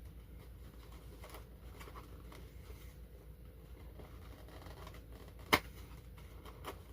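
Faint handling of plastic packaging, with small scrapes and ticks and one sharp click about five and a half seconds in, as a toy locomotive is fitted back into its plastic insert.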